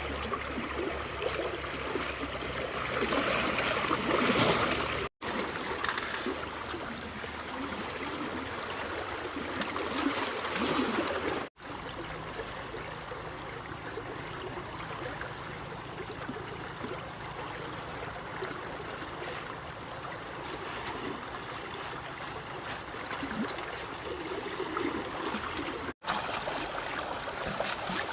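Running, splashing water, busier in the first ten seconds, broken off abruptly three times by brief gaps of silence.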